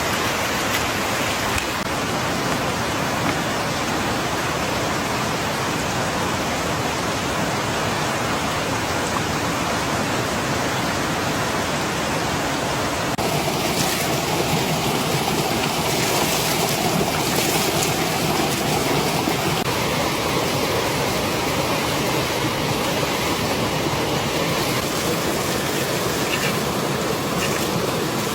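Steady rushing of water in the rain-soaked forest, an even hiss with no distinct drops or knocks, growing slightly louder about halfway through.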